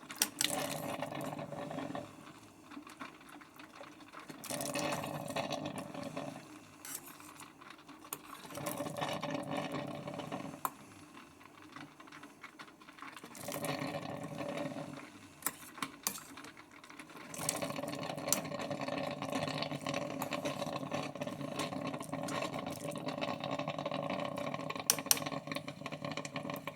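Drip coffee maker gurgling and sputtering in bursts as it pushes hot water out onto the noodles, settling into a longer continuous run in the second half; the water reservoir is nearly empty.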